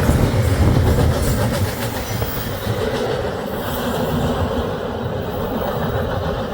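Norfolk Southern freight train cars rolling past at steady speed, wheels rumbling and clicking over the rail joints, a little louder in the first couple of seconds.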